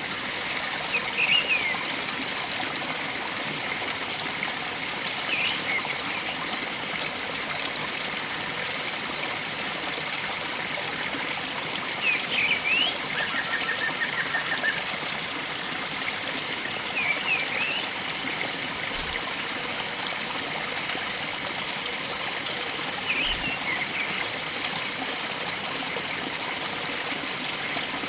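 Steady rush of a flowing stream, with a bird giving short, sharp calls every few seconds and, about halfway through, a quick run of about eight notes.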